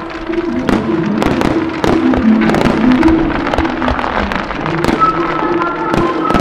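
Display fireworks launching and bursting: a quick, irregular string of sharp pops and bangs from rows of angled ground-level comets and aerial shells breaking into red stars, with music playing under them.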